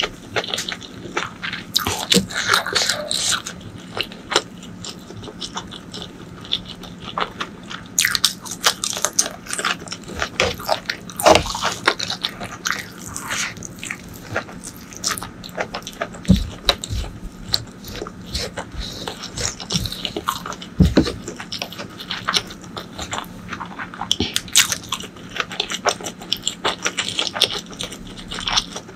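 Close-miked eating sounds: chewing and mouth smacks with crunchy bites, coming irregularly throughout, a few bites louder than the rest.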